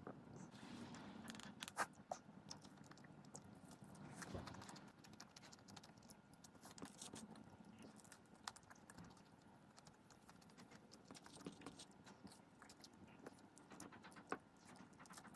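Near silence with faint, irregular small clicks and taps, one a little sharper about two seconds in.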